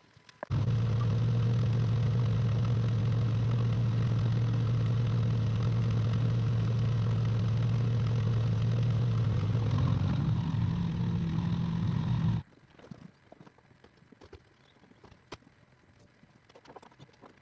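Excavator's engine running steadily with a low hum, starting abruptly about half a second in and cutting off abruptly about twelve seconds in, with a slight rise in pitch shortly before the end. Faint scattered clicks and taps follow.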